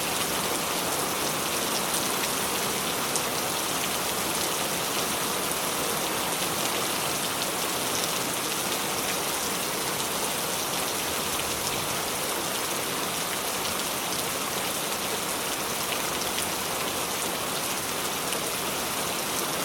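Rain falling steadily: an even hiss with scattered sharper drop ticks.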